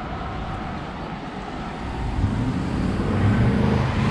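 A motor vehicle engine running, getting louder about two seconds in and then holding a steady low pitch.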